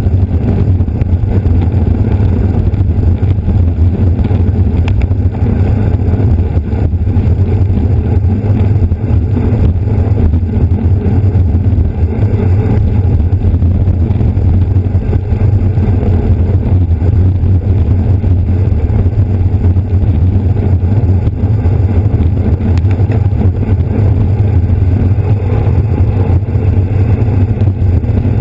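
Steady wind rumble on the microphone of a camera riding on a bicycle at race speed, with the low hum of the bike's tyres on the road.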